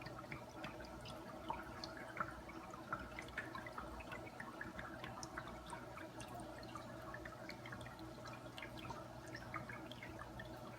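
Small paludarium waterfall trickling: many small, irregular drips and splashes of water over a steady low hum.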